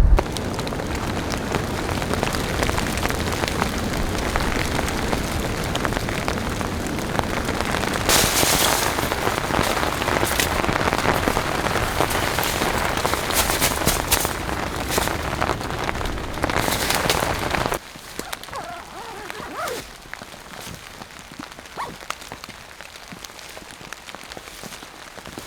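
Heavy rain, a dense hiss flecked with the clicks of individual drops striking a surface. About eighteen seconds in it drops away suddenly to a much quieter, sparser patter.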